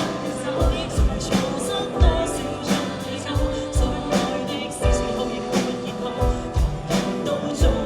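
Live band of drums, electric guitar and keyboard playing a song with a singer, the kick drum keeping a steady beat under cymbal crashes.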